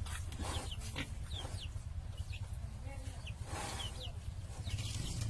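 Scattered short, high chirps from birds or poultry, each falling slightly in pitch, over a steady low rumble. A few sharp knocks and a brief rustling noise come about three and a half seconds in.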